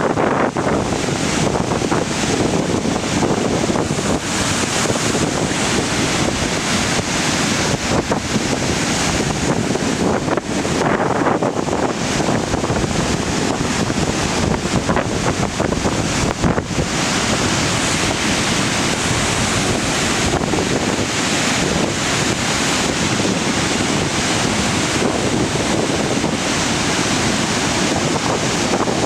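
Reykjafoss waterfall: a steady, loud rush of falling water, with wind on the microphone.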